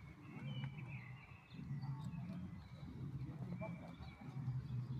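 Outdoor ambience: faint, short bird chirps over a steady low rumble.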